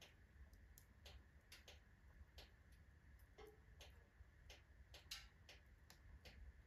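Wood fire of alder and oak logs in a fireplace stove, crackling faintly with irregular sharp pops about twice a second over a low steady hum.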